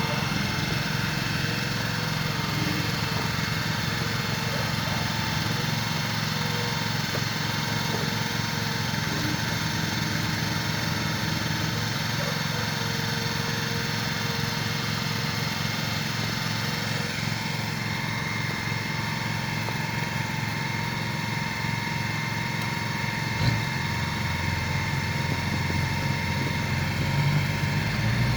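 An engine running steadily at a constant speed, with a continuous even hum.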